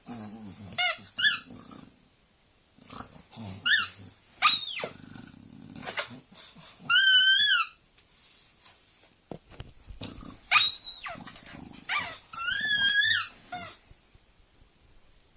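Rubber squeaky ball squealing over and over as a French bulldog presses and rolls it under its back: several squeaks, some short, some held for most of a second with a wavering pitch. Low grunting breaths from the dog come between the squeaks.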